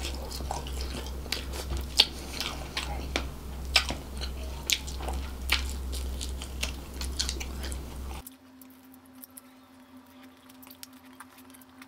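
Close-miked chewing and biting of sauced devil chicken: wet mouth smacks and clicks, a few of them sharp. About eight seconds in, a low background hum cuts out suddenly and the chewing sounds go quieter.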